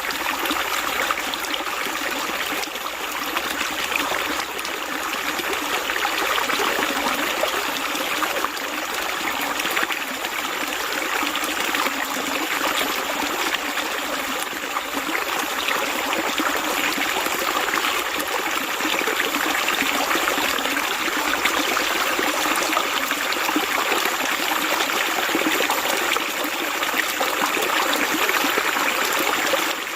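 Steady running water: a stream flowing and trickling.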